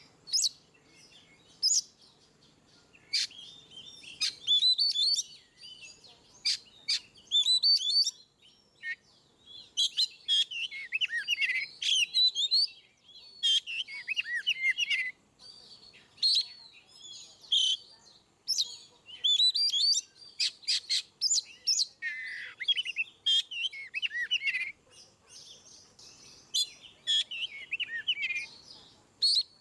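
Oriental magpie-robin (kacer) singing loudly and at length: varied, rapidly changing whistled phrases and sharp chirps, delivered in bursts with short pauses between them.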